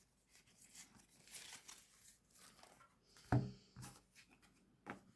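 Faint rustling and crinkling of Yu-Gi-Oh trading cards and their packaging being handled. A dull knock comes a little past three seconds in, and a smaller one near the end.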